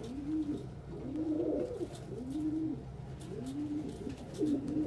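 Domestic pigeons cooing: a steady run of low, arched coos repeating less than a second apart, with several birds overlapping near the end.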